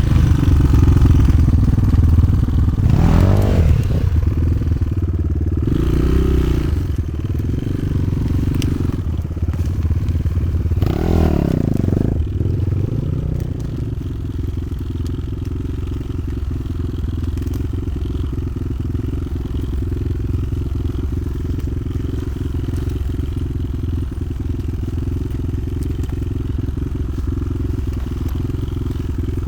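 Motoland XR 300 Lite enduro motorcycle engine running, revving up and back down about three times in the first dozen seconds, then running at a steady note.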